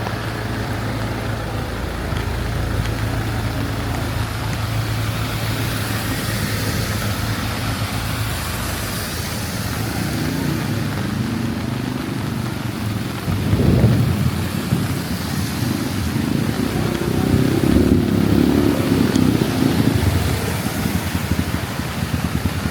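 Street traffic in steady rain: an engine hums steadily at first, then vehicles pass on the wet road with louder rumbles around the middle and through much of the second half.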